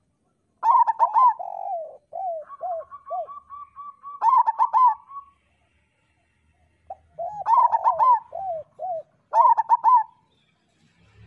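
Zebra dove (perkutut) cooing: two song phrases of quick, clipped coos, the first with a fast, even run of short notes through its middle, the second starting about seven seconds in.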